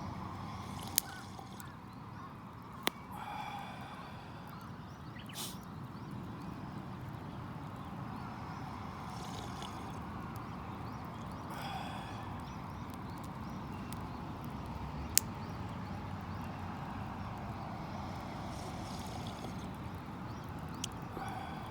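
Wood campfire burning with a steady low crackle and a few sharp pops.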